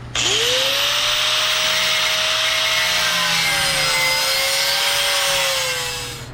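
Handheld power grinder with a cut-off wheel spinning up with a quickly rising whine, then cutting into old sheet metal with a steady, loud grinding hiss, winding down near the end.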